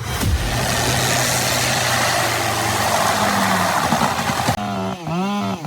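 A heavy machine's engine runs loud with a dense mechanical noise over a steady low hum. About four and a half seconds in, it cuts to a clearer engine note that drops and rises again several times, like an engine revving.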